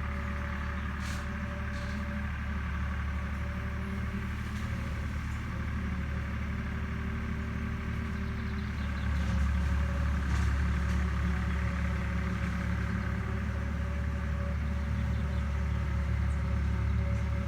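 Agricultural machine's engine running steadily with a low, droning hum, growing louder about nine seconds in.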